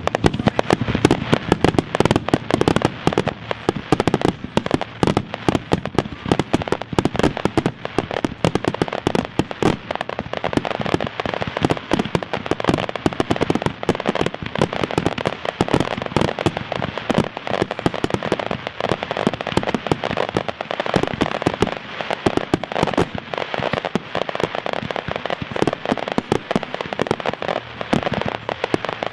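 Consumer firework cakes going off in a finale barrage: a dense, unbroken run of bangs and crackling reports.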